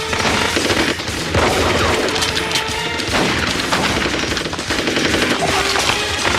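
Sustained rapid automatic gunfire, many shots close together, with a film score underneath.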